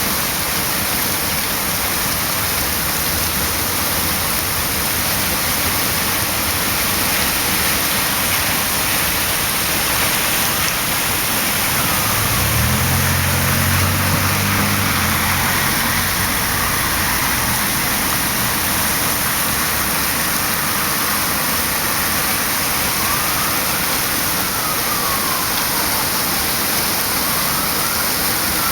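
Heavy rain pouring steadily. About halfway through, a vehicle engine rumbles past for a few seconds, and in the second half a distant siren wails, rising and falling.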